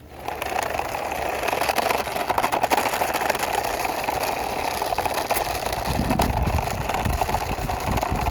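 A toy truck's wheels rolling and rattling along a wall as it is pushed by hand: a continuous gritty rolling noise full of small clicks, with a deeper rumble joining about six seconds in.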